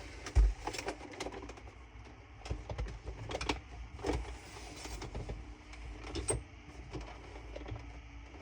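Scattered light clicks and knocks from handling a robot vacuum's plastic body on a work table, with a dull thump about half a second in.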